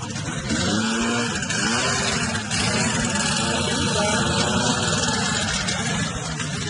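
Snowmobile engine running and revving, its pitch rising and falling.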